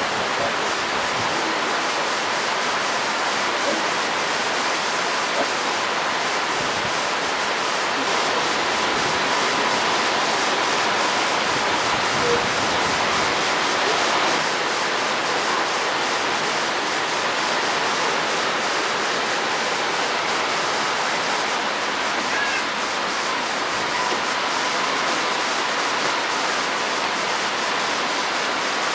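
Heavy rain pouring down steadily: a dense, even hiss of falling water that does not let up.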